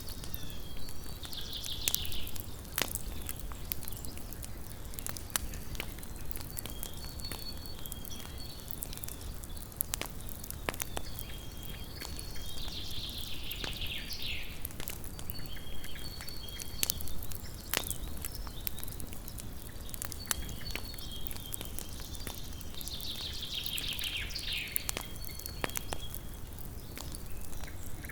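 Wood campfire burning, with sharp irregular crackles and pops over a low steady hiss. A high, call-like sound repeats three times, roughly eleven seconds apart, behind the fire.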